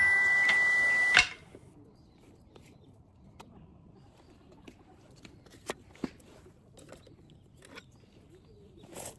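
Background music that stops about a second in, followed by a campfire's faint, irregular crackles and pops.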